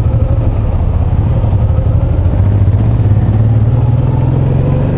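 Honda VTX1800 cruiser's V-twin engine running at low road speed, its low note growing louder and a little higher about halfway through.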